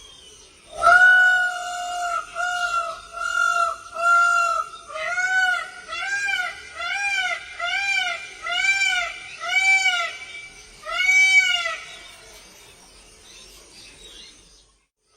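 A bird calling: one long note, then a run of short repeated notes about two a second, each rising and falling in pitch in the second half, stopping a few seconds before the end.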